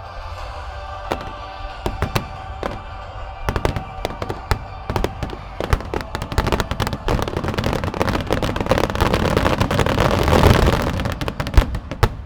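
Aerial fireworks finale barrage: shells bursting in quick succession, the bangs growing denser into a continuous crackling peak about ten seconds in, then stopping abruptly near the end. Music plays underneath.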